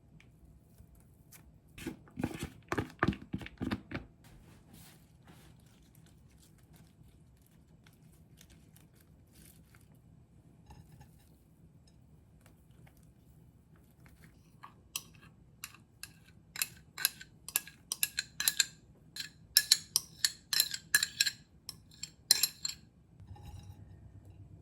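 Kitchen utensils and dishes knocking and clinking: a short cluster of knocks about two seconds in, then a quick run of sharp clicks and taps from about fifteen seconds in until near the end.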